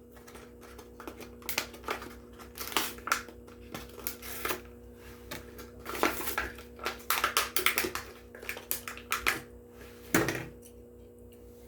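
Plastic blister pack and card backing of a die-cast toy car being pulled and crinkled open, a run of irregular clicks and crackles. A steady low hum sounds underneath.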